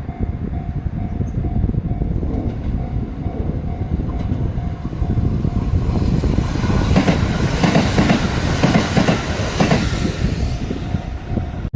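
Sanyo Electric Railway train passing a level crossing: a steady rumble, with a rapid run of wheel clacks over the rail joints that is loudest from about halfway to near the end. The crossing's warning bell rings in a steady repeating pattern behind it.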